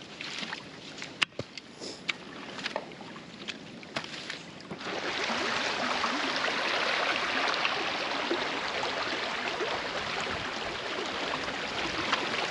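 Creek water splashing with scattered knocks of rocks and sticks as a beaver dam is pulled apart by hand, then, about five seconds in, a sudden steady rush of water that lasts to the end, the creek flowing through the opened dam.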